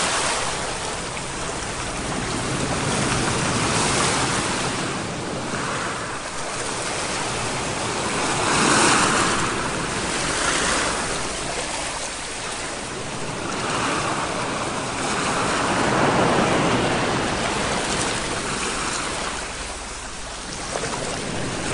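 Ocean surf: waves washing in and drawing back, the rushing noise swelling and fading every three to five seconds.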